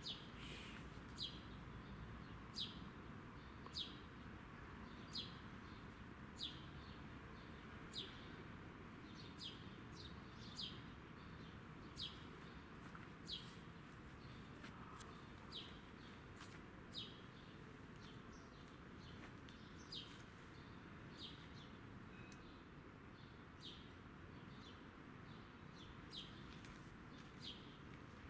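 A bird repeating a single short, high, falling chirp at an even pace, about once every second and a bit, over faint steady outdoor background noise.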